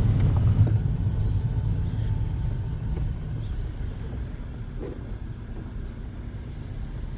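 Low rumble of a moving car heard from inside the cabin, engine and road noise, loudest in the first second and easing off after that.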